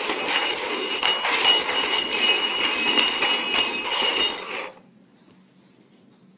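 Cups being shuffled around on a hard table top, sliding and clinking with a constant clatter, then stopping about four and a half seconds in.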